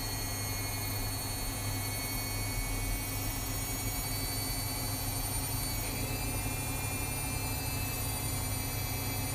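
Washing machines running mid-cycle: a steady low motor hum with several thin, high-pitched electronic whines over it, which shift slightly in pitch about six seconds in as a motor changes speed.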